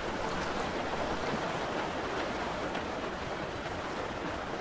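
Steady rain, an even rushing hiss with no break.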